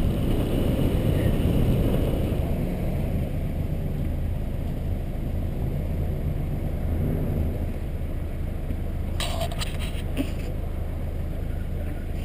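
Car engine running steadily at low speed with road noise, heard through the hood-mounted camera. About nine seconds in, a short stretch of clicking and crackling lasts a little over a second.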